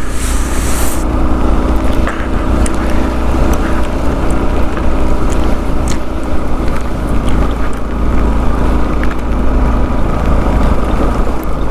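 Motorcycle engine running steadily under way, with wind rumbling on the microphone.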